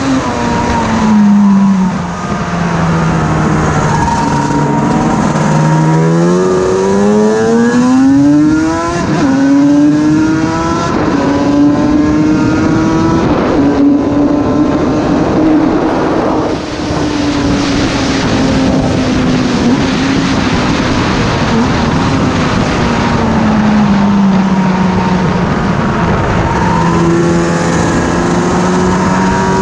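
750cc Yamaha four-cylinder two-stroke racing motorcycle at speed, heard from the rider's helmet with wind rushing past. The engine note drops a few seconds in as the rider comes off the throttle, climbs steeply and holds high, then falls away again and starts to rise near the end.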